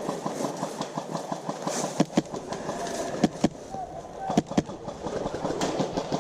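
Airsoft gunfire. A rapid train of clicks, about eight a second, from full-auto fire, fades out after a second and a half. Then come sharp single shots, several in quick pairs, typical of an HPA airsoft rifle fired on semi-auto.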